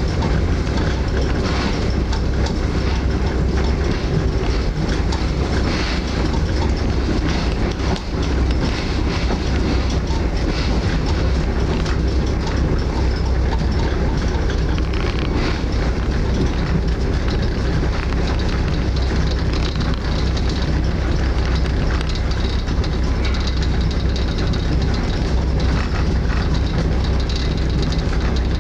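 Passenger train running along the line, heard from inside an open-sleeper carriage: a steady low rumble and wheel-on-rail noise, with occasional faint clicks from the wheels.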